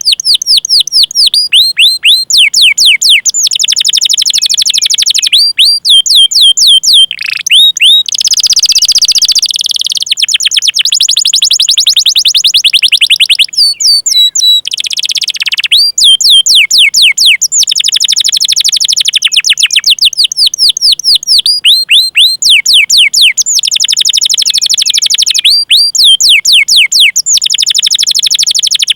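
Domestic canary singing: long, fast rolls of repeated high down-slurred chirps broken by short pauses, with a buzzy trill about eight seconds in.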